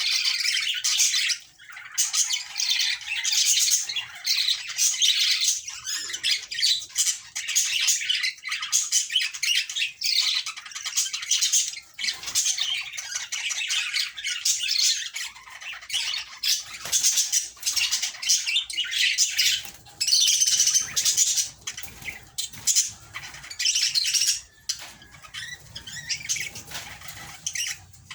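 Budgerigars chattering nonstop: a fast, dense stream of warbles, chirps, squawks and clicks with only brief pauses.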